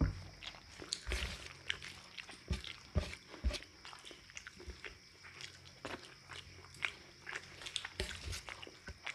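A person chewing a rice meal close to the microphone: irregular wet mouth clicks and smacks, with a few soft low thumps.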